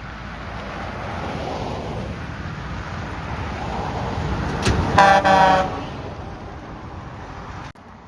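Road noise builds as traffic passes, then a semi truck's air horn sounds two short blasts about five seconds in, the loudest thing heard, before the noise fades.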